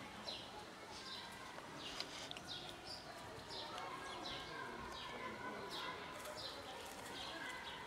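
A small bird chirping over and over: short, high, falling chirps, roughly two a second.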